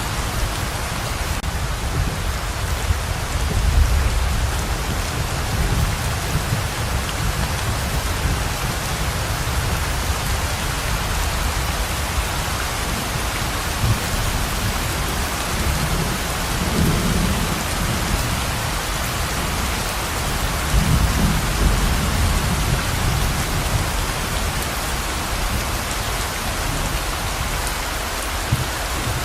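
Heavy rain pouring steadily, with low rumbles of thunder rolling in a few times: once a few seconds in, and twice more past the middle.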